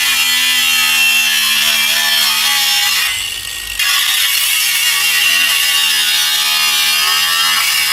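Angle grinder cutting through sheet steel, its motor pitch sagging under load. It eases off briefly about three seconds in, then cuts again until the piece comes free.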